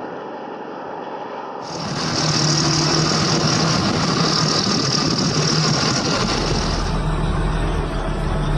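Large tractor diesel engines running. About two seconds in the sound switches abruptly to a louder engine with a steady low hum and a hissing high band.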